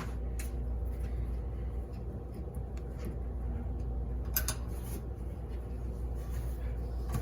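A steady low machine hum, with scattered light clicks and taps from parts and tools being handled, and a sharper clatter about four seconds in.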